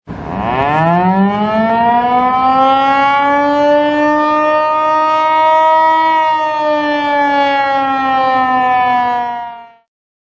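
Outdoor warning siren winding up quickly to a steady wail, holding a nearly level pitch for several seconds, then cutting off shortly before the end.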